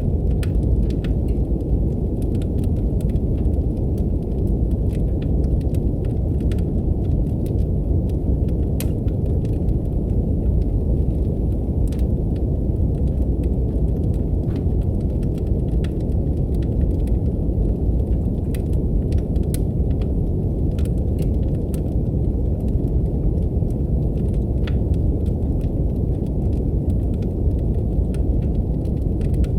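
Steady brown noise, a deep, even rumble, with a wood fire crackling over it in scattered sharp pops and snaps.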